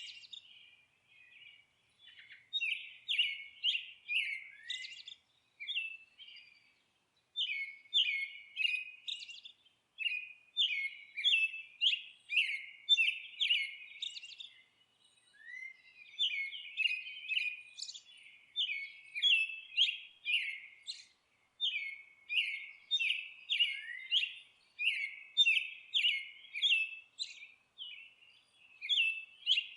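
Songbirds singing and twittering in quick runs of high chirps, phrase after phrase, with short pauses every few seconds.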